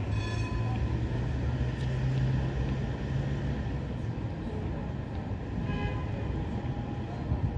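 A train running in a large station: a steady low hum that rises slightly in pitch and fades after about three and a half seconds, over a general rumble. Brief higher tones come just after the start and again about six seconds in.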